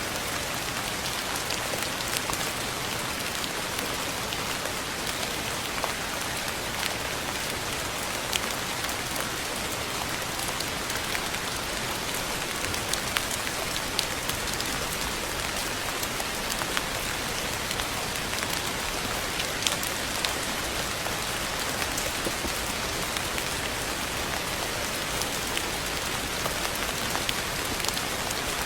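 Steady rain falling on a surface, an even hiss with many sharp drop ticks scattered through it.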